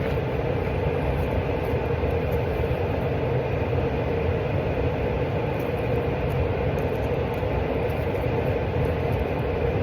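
Steady low rumble and hiss with a constant hum, unchanging throughout.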